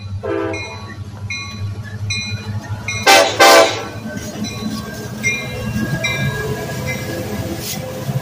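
Union Pacific diesel freight locomotives passing at close range, engines rumbling steadily, with a bell ringing at an even pace. About three seconds in the locomotive horn gives two loud short blasts, after a brief softer toot at the very start.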